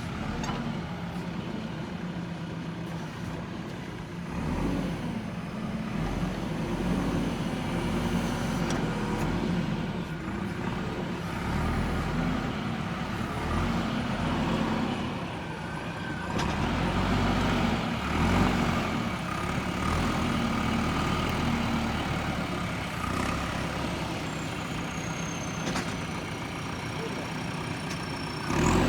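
Diesel engine of a JCB 3DX backhoe loader working while digging. Its note swells and eases every few seconds as the hydraulics take load.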